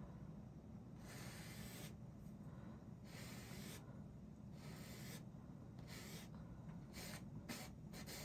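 Paintbrush loaded with white paint stroked across a canvas, a faint soft swish with each stroke, the strokes coming quicker and shorter near the end.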